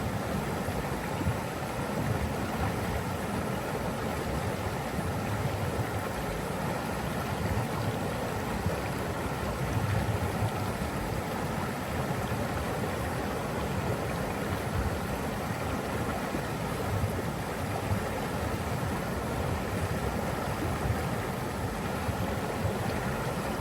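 Steady rushing water from a stream or waterfall, an even unbroken wash.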